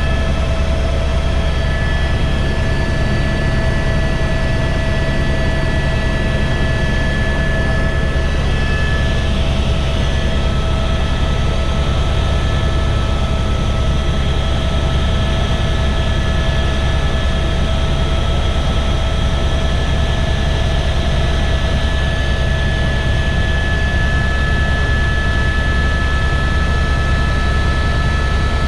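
Helicopter in flight: a steady, loud drone of rotor and turbine, with a deep hum underneath and several thin high whining tones above. The whining tones shift slightly about nine seconds in.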